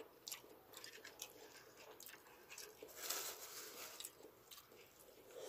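Faint close-up chewing: scattered small crunches and wet mouth clicks, with a slightly louder stretch about three seconds in.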